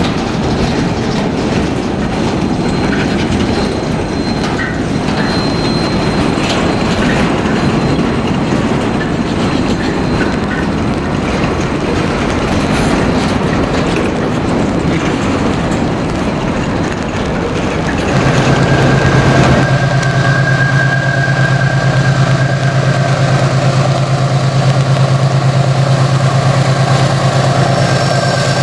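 A freight train of boxcars rolls past with a steady rumble and clatter of steel wheels on the rails. About two-thirds of the way through, this gives way to the steady low hum of a diesel locomotive's engine as it approaches.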